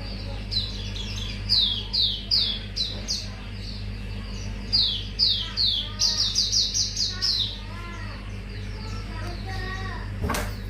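Auriventer white-eye singing: a string of high, quick chirps that sweep downward, with a fast run of them about six seconds in and softer lower notes between. A steady low hum runs underneath, and there is a single sharp click near the end.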